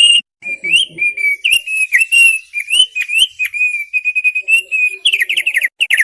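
Opior paruh tebal (thick-billed heleia) singing a continuous, loud warbling song of wavering, whistled notes. Near the end it switches to a rapid run of short falling notes, about eight a second.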